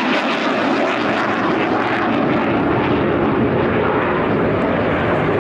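Saab 35 Draken fighter jet flying a display pass, its engine noise loud and steady, with a deep rumble filling in at the start.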